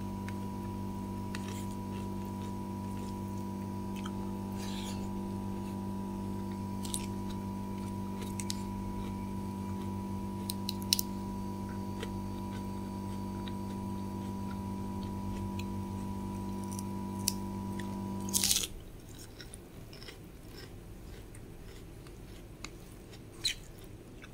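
Close-miked eating: chewing with scattered sharp mouth clicks, over a steady hum that cuts off suddenly with a click about three-quarters of the way through.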